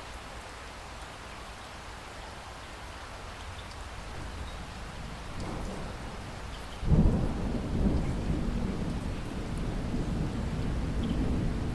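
Steady rainfall with a roll of thunder: a low rumble builds slightly around five seconds in, then breaks loud and sudden about seven seconds in and keeps rumbling to the end.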